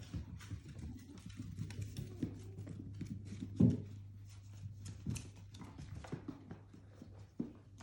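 Dachshunds moving about and playing: a scatter of small clicks and knocks, with one louder thump about three and a half seconds in.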